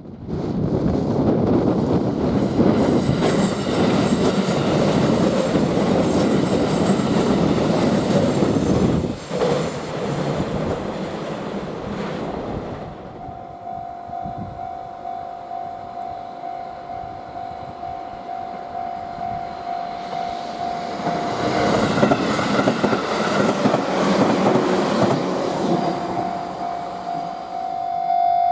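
A freight train passing at speed, its wheels clattering over the rail joints, loud for the first nine seconds and then quieter. About halfway through a steady, lightly pulsing tone sets in. Near the end it drops out for a few seconds while the rumble swells again, then returns.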